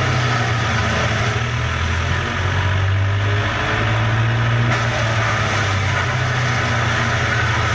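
Disc wood chipper running steadily: an even machine noise over a strong low hum.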